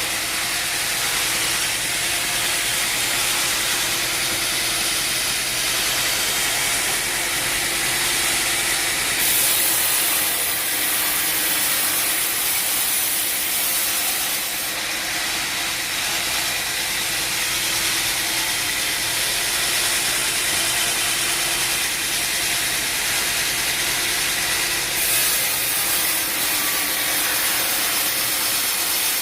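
Heavy wood-cutting machine running steadily under load: a continuous hissing, grinding noise that turns harsher for several seconds about nine seconds in, and again near the end.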